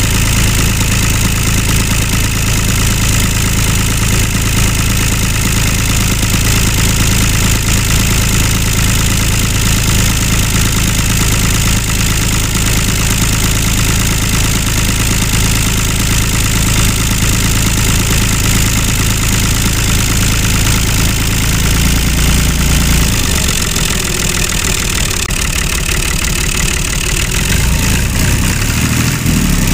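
Tractor engine sound running at a steady low idle, which turns rougher and uneven about 23 seconds in.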